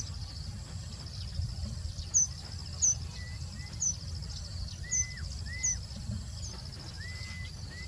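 Birds chirping outdoors: short high chirps repeating every half second or so, with a few whistled notes that drop at the end. A steady insect trill and a low rumble run under them.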